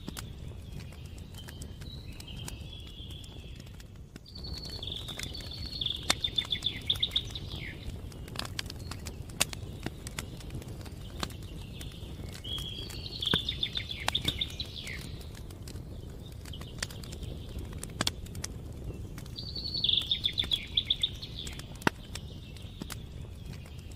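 Campfire crackling with scattered sharp pops, while a songbird sings a short trilled phrase four times.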